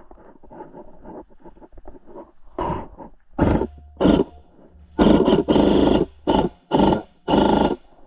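Airsoft electric guns firing in full-auto bursts, about seven short bursts from a few seconds in, one of them nearly a second long.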